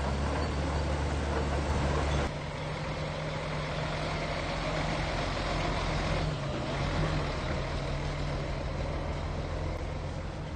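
Heavy diesel engine of earthmoving machinery running steadily at a low pitch. Its sound changes abruptly about two seconds in, dropping in level and losing its deepest hum, and shifts again slightly about six seconds in.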